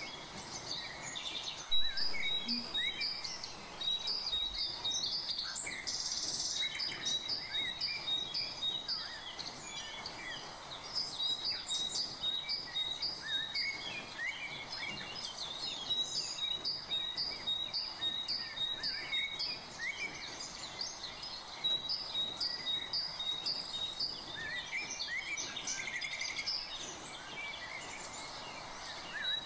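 Birds chirping, one of them repeating a short high note about three times a second in long runs, broken by a few brief pauses, with other scattered chirps over a steady background hiss.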